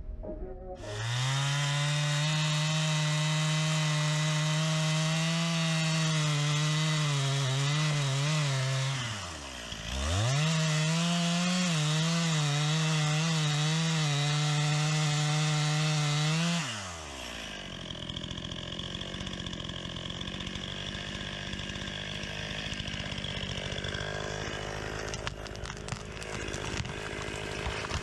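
Two-stroke chainsaw running at high revs through wood. It drops off and picks back up about ten seconds in, then falls back to a quieter idle for the last ten seconds or so.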